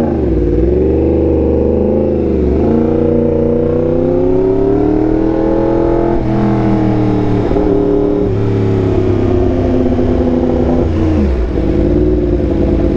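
Yamaha R1M's crossplane inline-four engine through an SC Project exhaust, running under way on a street ride. The pitch falls and climbs repeatedly with the throttle, with a gear change about six seconds in and a brief dip and recovery near eleven seconds.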